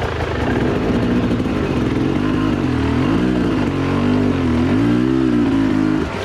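Dirt bike engine running under load, its revs rising and falling over and over as the rider works the throttle through a slippery wet section.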